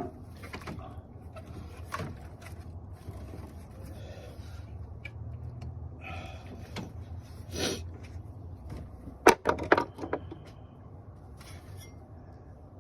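Hand work on plastic wiring-harness clips and trim in a car's engine bay: scattered clicks and knocks, with a quick run of sharp clicks about nine seconds in.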